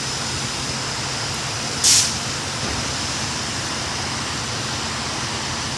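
SEPTA Silverliner IV electric multiple-unit train running at the platform, making a steady rumble and hiss. About two seconds in there is one short, loud burst of air hiss from the train.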